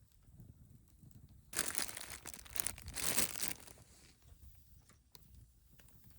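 Plastic packaging crinkling and rustling as it is handled, for about two seconds starting a second and a half in.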